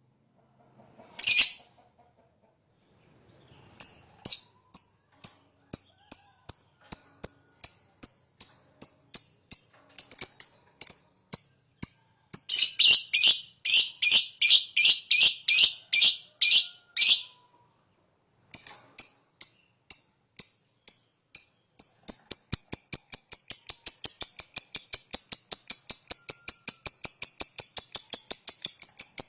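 Lovebird calling in short, sharp, high chips, about three or four a second, that twice speed up into a long, fast chattering trill. This is the long 'ngekek' call that hobbyists prize in a fighter lovebird.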